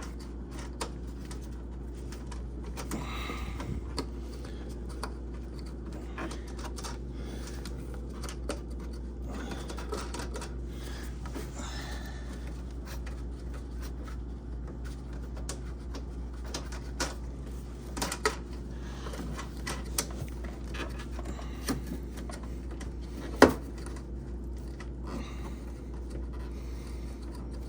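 Scattered small clicks and rustles of hands threading a compression nut and ferrule onto a shutoff valve's outlet, with one sharper click about 23 seconds in, over a steady low hum.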